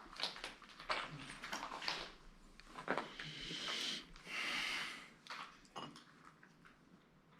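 Faint scattered clicks and crackles, with two short breath-like rushes of hiss near the middle.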